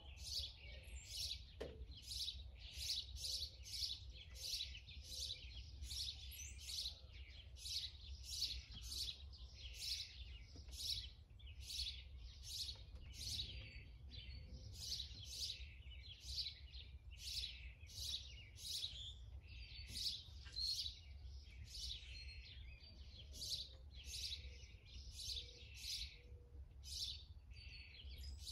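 A small bird chirping over and over, nearly two short chirps a second, with a faint steady low rumble underneath.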